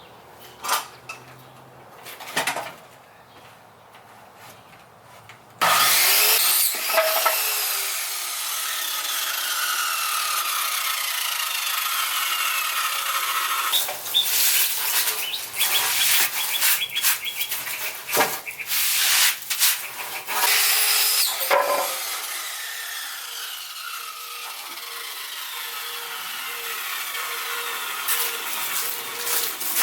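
Electric power saw cutting through wooden boards (2x6 lumber). It starts suddenly about six seconds in, then runs loud with its pitch sliding as the blade bites, after a few light knocks of the wood being handled.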